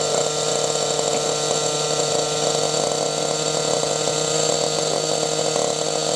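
Engine fitted with an aftermarket Fantec muffler, idling steadily; the exhaust gives a constant, even drone.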